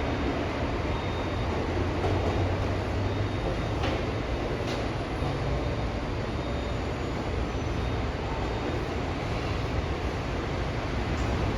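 São Paulo Metro Line 15 monorail train, a Bombardier Innovia Monorail 300, running on rubber tyres along its concrete guideway: a steady running noise with a low hum. Two faint clicks come about four and five seconds in.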